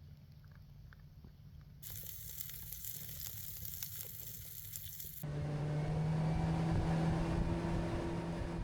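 Food sizzling and crackling in a hot pan, starting abruptly about two seconds in; about five seconds in it gives way suddenly to a steady motor hum.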